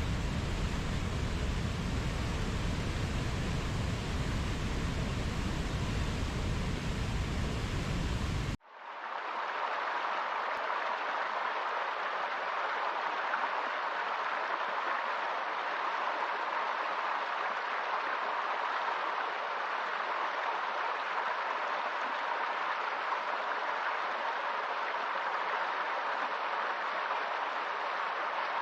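Steady rushing water. About eight seconds in it cuts abruptly from a deep, full rush to a thinner, brighter rush like a stream.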